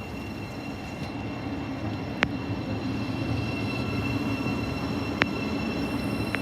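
A train passing through the station, its low rumble growing a little louder, with a sharp click twice.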